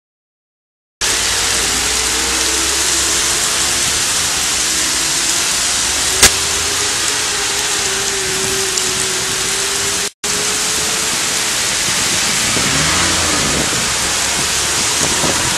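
Heavy rain pouring onto a flooded street and paving, a dense steady hiss, with vehicles running faintly beneath it. There is a sharp click about six seconds in and a brief cut-out about ten seconds in.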